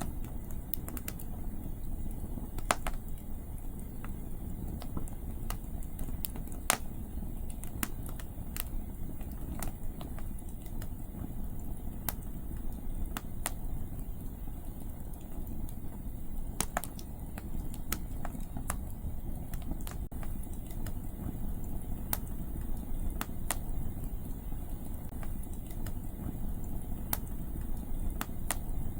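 Wood campfire crackling, with sharp pops at irregular intervals over a steady low rumble of wind.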